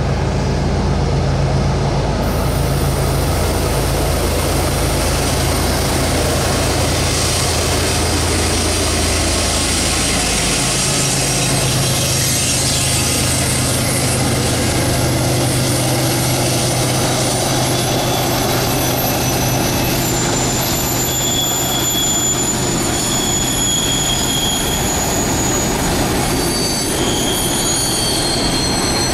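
A GE ES44AC diesel-electric locomotive passes with its engine running, a low drone that changes about ten seconds in. Empty hopper cars then roll by, their wheels squealing in high, on-and-off tones through the second half.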